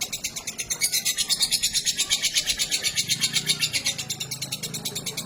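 Female lovebird singing a long, unbroken chattering trill: rapid, even, high chirps about nine a second, loudest in the first half.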